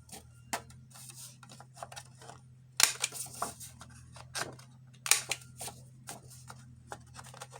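Handheld corner rounder punch snapping through paper as page corners are rounded: two loud snaps about two seconds apart among lighter clicks and paper handling.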